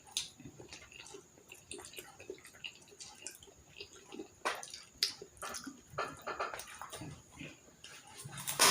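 Close-up eating sounds from Jollibee fried chicken: irregular small crunches, wet clicks and mouth smacks from chewing, with a louder cluster near the end.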